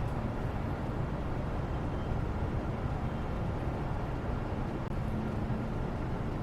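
Steady background noise, a low, even rumble with no distinct events.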